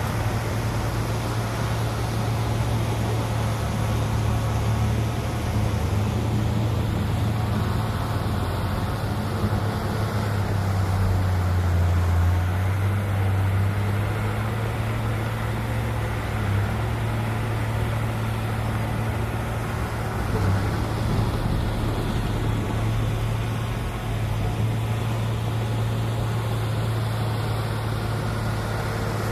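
Heavy diesel engine of earthmoving equipment running steadily with a deep, even hum, working a little harder for a few seconds about a third of the way in.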